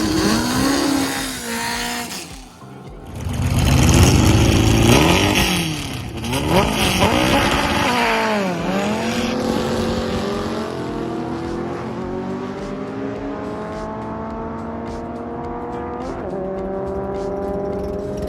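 Engine of a VW drag car at full throttle on a pass. It revs before a loud launch about three seconds in. The pitch climbs and drops back at each gear change, twice, then climbs slowly and steadily in the top gear.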